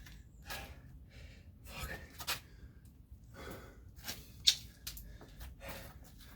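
A man breathing hard between exercise reps: a run of loud, rapid breaths and gasps, with one sharper exhale about four and a half seconds in. He is out of breath from a set of burpees and kettlebell jump squats.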